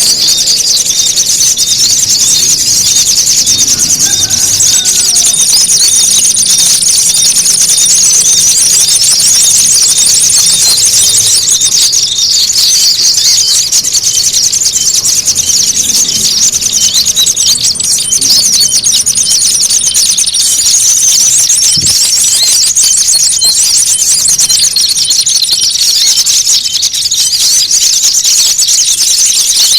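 Dense, non-stop chorus of small songbirds' rapid, high-pitched chips and trills, the agitated, noisy calling used as a lure to draw in small birds. A thin, high steady note sounds over it at times.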